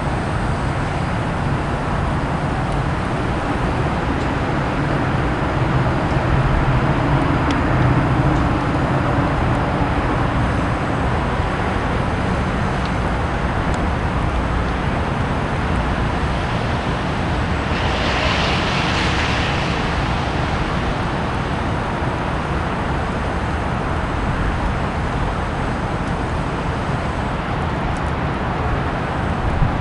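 Steady outdoor traffic noise, with a low rumble swelling in the first third and a hiss that rises and fades a little past halfway, like a vehicle going by.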